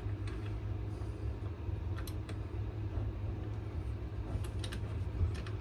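Steady low hum with a few light clicks and taps as the knife and swivel vise are handled and repositioned.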